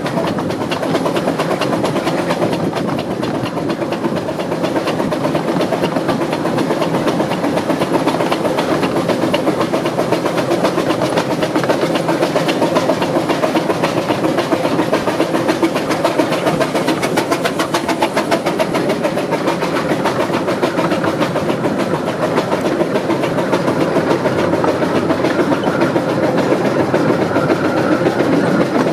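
The Ravenglass & Eskdale Railway's 15-inch-gauge steam locomotive 'Northern Rock' working hard up a steep 1 in 52 bank. The chimney exhaust beats come rapid and steady.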